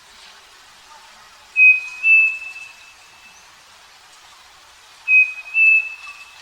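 Striped cuckoo (saci) singing its two-note whistled song twice, about three and a half seconds apart, the second note of each pair slightly higher and held longer.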